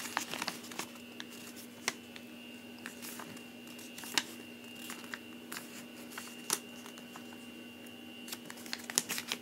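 A sheet of printer paper being handled and folded by hand: soft rustling with scattered sharp crinkles and taps as the fold is lined up and creased.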